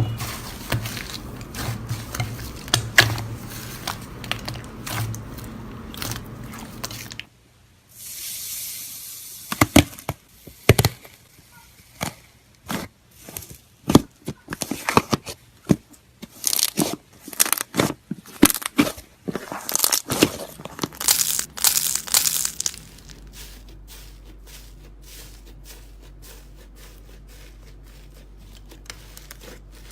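Slime being squeezed and pressed by hand, making a run of sharp crackling clicks and pops. They are densest through the middle and thin out to fainter clicking near the end.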